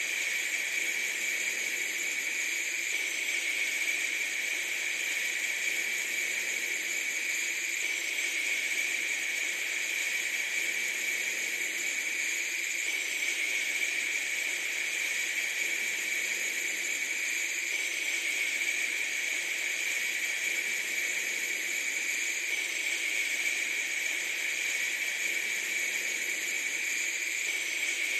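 Steady, even hiss with a bright, high-pitched band in it, unchanging throughout.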